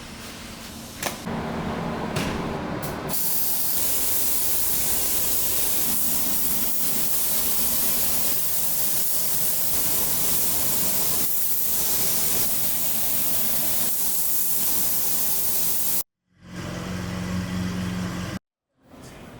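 Steady, loud hiss of rushing air, cut off abruptly about three-quarters of the way through. A short clip with a low hum under it follows.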